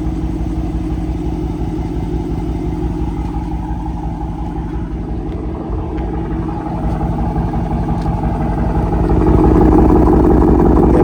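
Dodge Charger R/T's 5.7-litre Hemi V8 idling with a steady, low exhaust rumble, which grows louder about nine seconds in.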